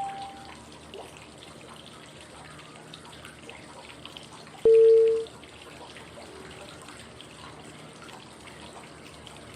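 Steady flowing-water white noise, with a single short pure cue tone sounding about halfway through and fading quickly. The tone marks the change to the next phase of a 5-5-5 breathing cycle.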